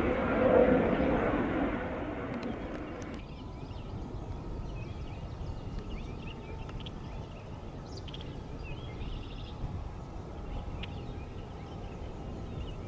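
Rushing hiss of an open air-traffic-control radio channel that cuts off about three seconds in. It leaves low steady outdoor background noise with faint scattered bird chirps.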